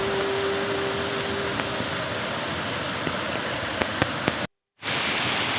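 Steady rushing of flowing water, broken by a brief dropout to silence just after four and a half seconds. A steady tone stops about two seconds in, and a few light clicks come just before the dropout.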